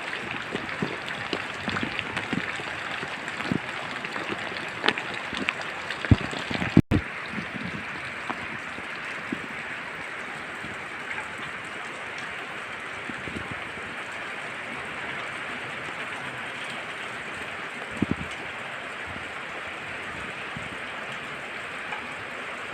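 Steady rain falling in a forest, with many close, heavy drops ticking sharply in the first few seconds. After a brief cut about seven seconds in, it settles into an even rain hiss with only an occasional drop.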